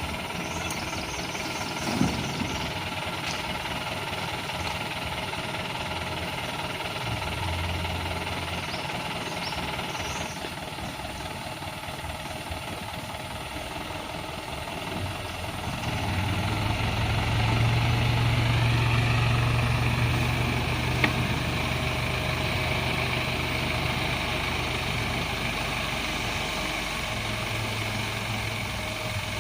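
Isuzu Elf dump truck's diesel engine idling steadily, then running harder and louder from about halfway in.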